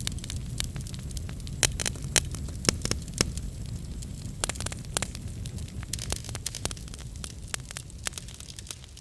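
Wood fire burning, with a steady low rumble and many irregular crackles and sharp pops, the loudest few about two to three seconds in.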